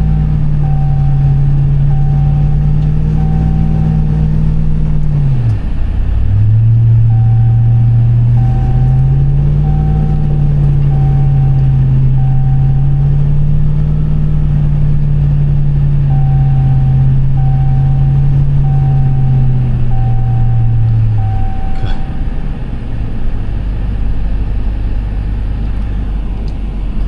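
Ram TRX's supercharged 6.2-litre V8 pulling steadily under load while towing a stuck vehicle. It eases off about five seconds in, picks back up, and drops back to idle a little past twenty seconds. A vehicle warning chime beeps about twice a second in three runs over it.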